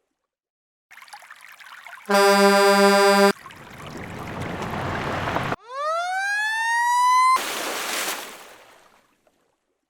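A run of edited sound effects: a short rush of noise, a loud horn blast about two seconds in, a swelling rush like pouring water, then a rising whistle-like glide and a burst of noise that dies away.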